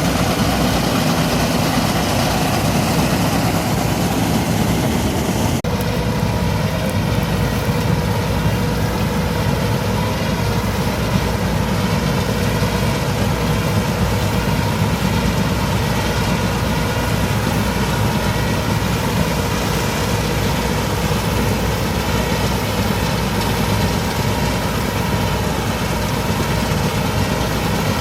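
Massey Ferguson 385 tractor's diesel engine running steadily. About six seconds in the sound changes abruptly and a steady whine joins it.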